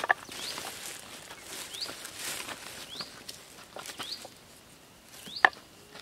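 A short rising chirp, repeated about once a second, over a faint hiss, with a few sharp clicks as clay pots and lids are handled; the loudest clicks come near the start and about five and a half seconds in.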